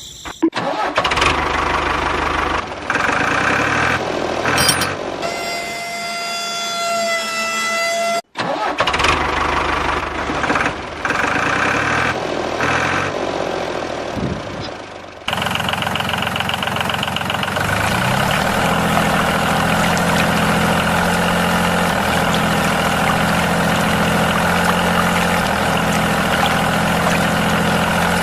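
Engine of a homemade mini tractor being started: about fifteen seconds of uneven, stop-and-go cranking and sputtering with a brief whine, then it catches about halfway through and runs steadily at idle.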